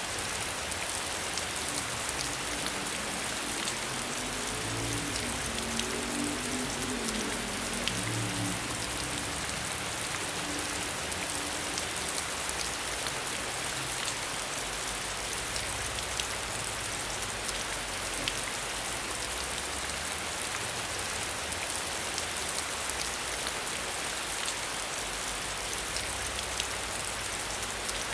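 Steady rain heard behind a window, an even hiss dotted with many sharp ticks of single drops striking the surface.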